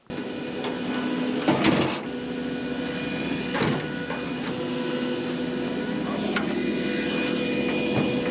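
John Deere 9500 combine running steadily with an even mechanical hum, with a few sharp knocks and clunks, one about a second and a half in and others every couple of seconds.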